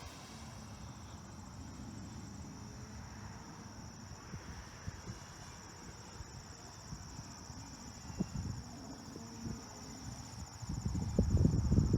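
Crickets chirring steadily in a high, even band, over a low rumble of wind on the microphone that grows louder near the end.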